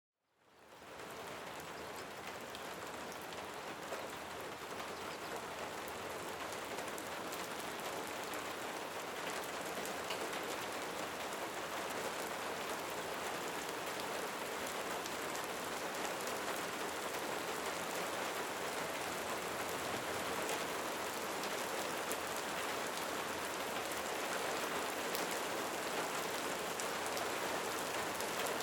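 Steady rain falling on a surface, a dense patter of raindrops. It fades in over the first second and grows slowly louder.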